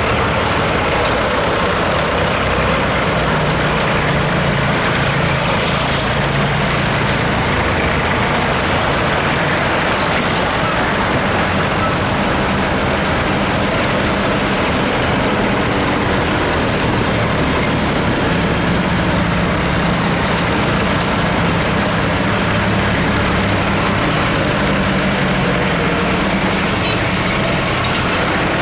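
Tractor engines running in a steady, continuous drone, their low engine note shifting slowly in pitch.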